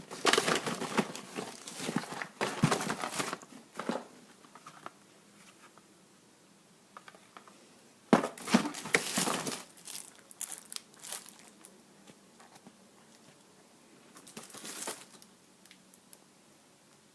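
Crinkling and rustling of fireworks and their plastic and paper wrappers as they are handled and moved about in a box. It comes in three spells: a long one of about four seconds at the start, a shorter one about halfway through, and a brief one near the end.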